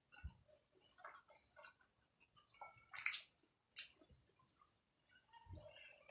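Close-miked eating sounds: chewing and wet mouth sounds over momos (dumplings), with scattered small clicks, the loudest two sharp smacks about three and four seconds in.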